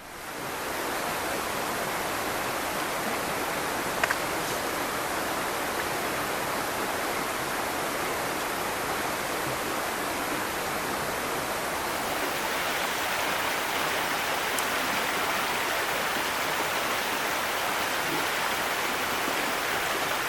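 A steady rushing hiss that fades in at the start and holds even throughout, with a single faint click about four seconds in.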